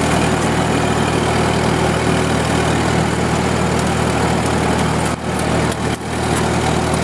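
The 11-horsepower Hercules four-cylinder flathead engine of a 1943 Minneapolis Moline generator set, running steadily with the generator carrying a light electrical load of about 8 amps.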